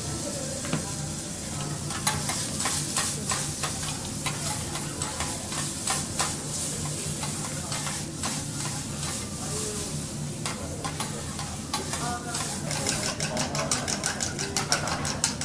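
Food sizzling on a teppanyaki griddle while metal spatulas scrape and click against the hot plate. Near the end the spatulas turn to a fast, even tapping, about six strokes a second, as in chopping or tossing food on the plate. A steady low hum runs underneath.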